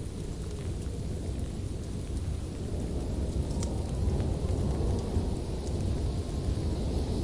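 Wood fire burning in a fireplace: a steady low rumble of flames with a few sharp crackles and pops.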